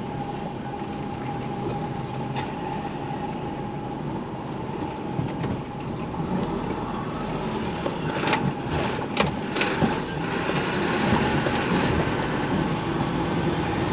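Truck cab interior as the lorry creeps along slowly: a continuous engine and road rumble with a steady whine, and a few sharp knocks or rattles about eight to ten seconds in.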